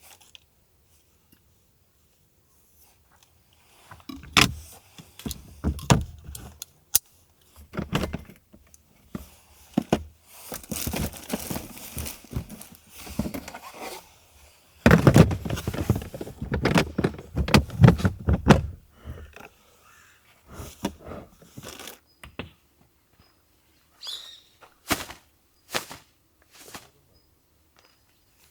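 Objects being handled: irregular knocks, clicks and rustling, busiest through the middle with a loud stretch a little past halfway, thinning to a few sharp clicks near the end.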